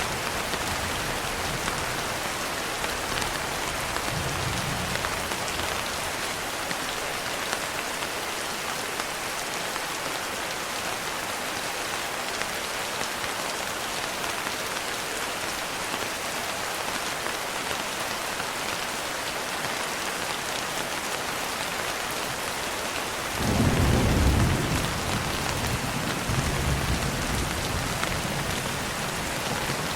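Steady heavy rain, with a low rumble of thunder rolling in near the end and swelling a second time before it fades.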